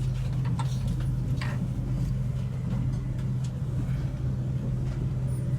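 Steady low hum of a passenger train, with a few faint clicks and knocks.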